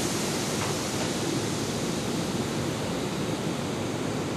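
Steady, even hiss and rumble from a Kintetsu 16000 series limited express electric train standing at the platform.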